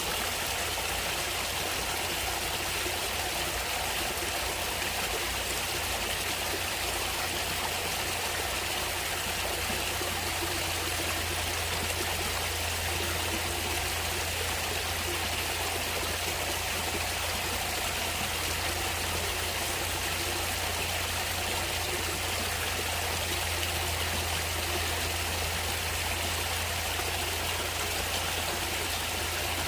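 Stream water running steadily, an even rushing and trickling with a low rumble underneath.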